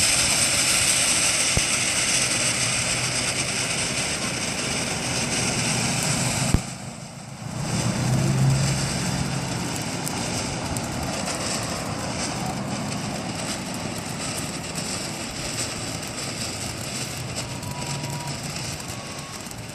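Fountain firework burning: a steady hiss of spraying sparks with scattered crackles. A sharp pop about six and a half seconds in is followed by a brief lull, then the hiss carries on and slowly dies down.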